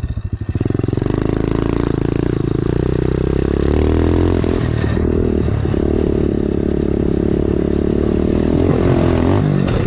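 Dirt bike engine running under throttle as it is ridden: the revs drop briefly just after the start, then pick up and hold fairly steady, with short dips around the middle and near the end.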